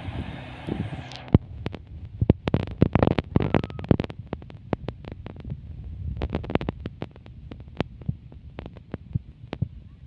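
A passing train: a steady rush that cuts off after about a second, then a low rumble with a run of sharp knocks, the wheels clacking over the rail joints. The knocks are thickest early on and thin out toward the end.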